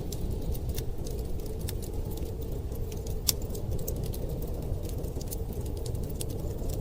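Wood fire crackling, with irregular sharp pops and one louder snap about three seconds in, over a steady low rumble of storm wind.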